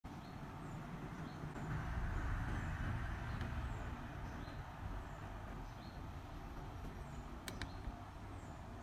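Steady low rumble of background noise, with faint short high chirps every second or so and two sharp clicks near the end.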